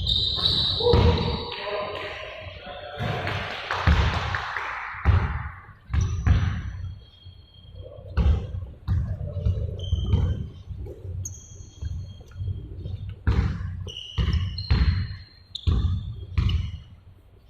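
Basketballs bouncing on a hard floor, repeated thuds at an uneven pace, with short high squeaks between them.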